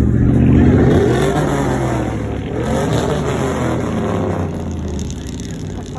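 A truck's engine revving loudly as it drives past, its pitch rising and falling, loudest about half a second in and then fading as it moves away.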